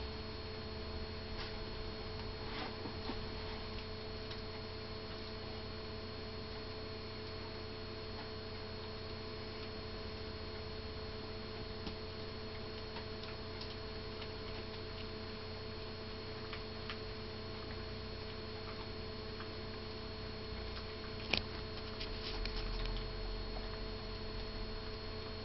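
A greyhound gnawing a Jumbone chew treat: scattered clicks and crunches of teeth on the chew, the sharpest about three-quarters of the way through. A steady electrical hum runs underneath.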